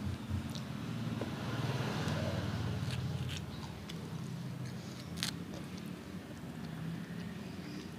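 Close-up chewing and mouth sounds of someone eating spicy fried chicken, with a few sharp clicks, the strongest about five seconds in. A low steady hum runs underneath.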